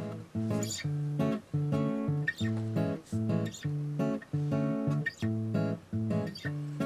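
Intro music: acoustic guitar strummed in a steady rhythm, about two strums a second.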